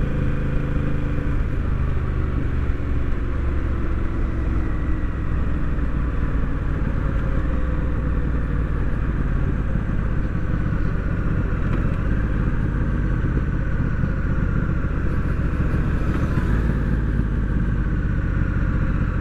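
Honda Rebel 1100's parallel-twin engine running steadily on the road.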